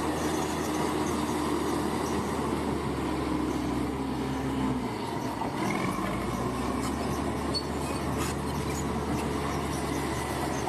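Large crawler bulldozer's diesel engine running steadily at work, with a low drone whose note drops and shifts about five seconds in.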